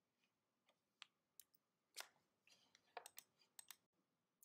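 Near silence broken by a handful of faint, brief clicks scattered irregularly, a couple of them in quick pairs.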